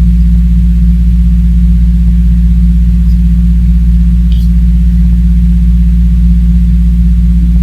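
Loud, steady low electrical hum with evenly spaced overtones that does not change, with a faint small tick about four and a half seconds in.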